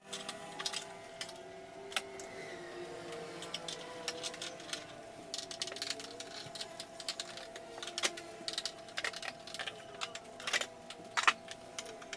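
Scattered light clicks and taps at an irregular pace over a steady faint hum, with a few sharper taps late on.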